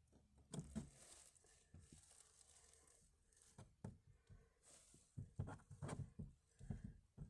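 Faint, scattered rustling and soft knocks from someone shifting about and handling things in a small enclosed space. A few come about half a second in, more around the middle, and a denser cluster near the end.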